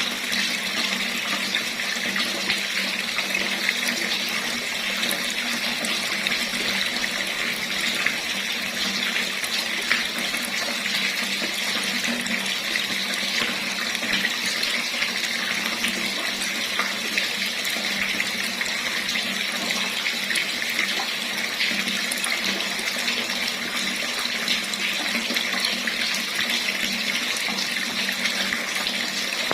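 Water running steadily from a tap, an even splashing hiss.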